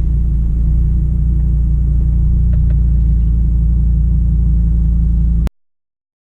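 Steady low rumble of a car on the road, heard from inside it. It cuts off abruptly to dead silence about five and a half seconds in.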